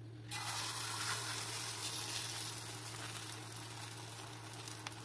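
Egg, oat and onion omelet batter hitting hot oil in a non-stick pan and sizzling, starting suddenly about a third of a second in and slowly easing off.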